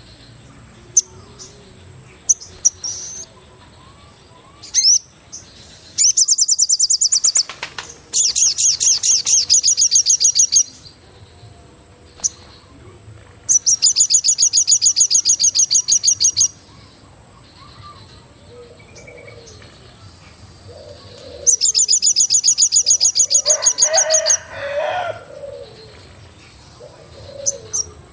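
Forest birds calling: four loud bouts of rapid, high-pitched trilled notes, each lasting two or three seconds, over a thin steady high tone, with soft low cooing calls in the last third.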